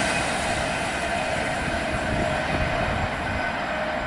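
Class 390 Pendolino electric train running at speed: a steady rush of wheel and rail noise, slowly fading.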